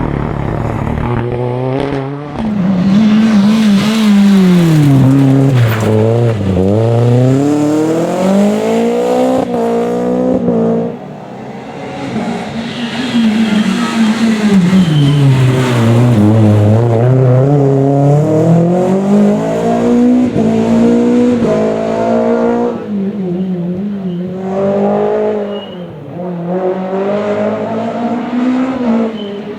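Rally car engines at full stage pace. Twice the revs drop in steps under braking and downshifts into a corner, then climb hard as the car accelerates away. Near the end the engine sound is lower and choppier.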